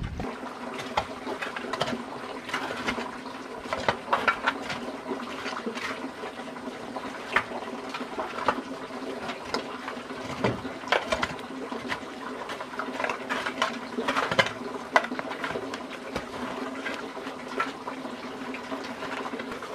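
Water running and splashing, with scattered knocks and clinks over a steady hum.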